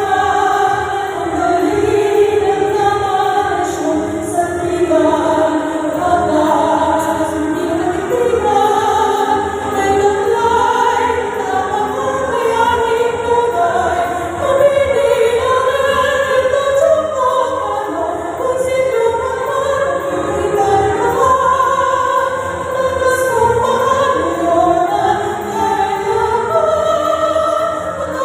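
Choir singing with musical accompaniment, held notes moving slowly from one pitch to the next.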